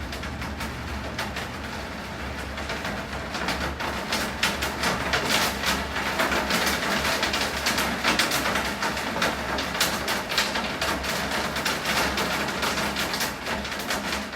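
Steady rain falling, with many sharp drips and spatters striking hard surfaces over a low, steady rumble.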